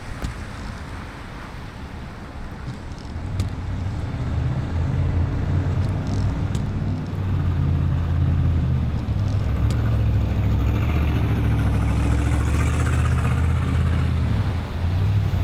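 Car driving on a wet road in the rain: a low engine hum under the hiss of tyres on wet pavement, getting louder about three to four seconds in as the car picks up speed, with a few faint ticks.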